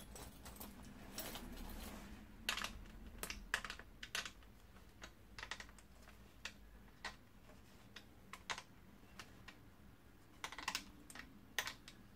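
Irregular small clicks and taps from handling the plastic handle and its screw while fitting the handle to a Bosch cordless stick vacuum, with small bunches of clicks about two and a half seconds in and again near the end.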